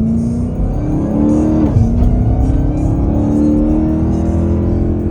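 Dodge Hellcat's supercharged V8 accelerating under load: the engine's pitch rises for nearly two seconds, drops sharply at an upshift, then climbs again.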